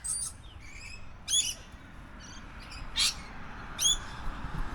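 Wild birds calling: four short, high chirps spaced about a second apart.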